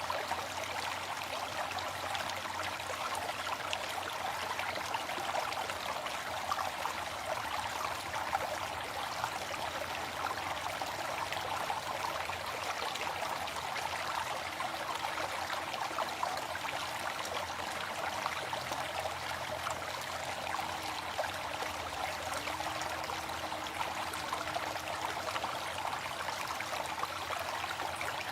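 Waterfall: water falling and splashing in a steady, unbroken rush with fine splashes throughout.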